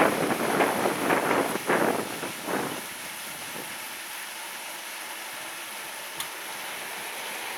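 Typhoon wind gusting hard against the microphone, the gusts easing about three seconds in to a steadier rushing hiss.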